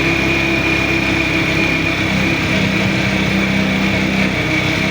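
A vehicle engine running steadily, its pitch shifting slightly about halfway in, under a steady hiss of heavy rain.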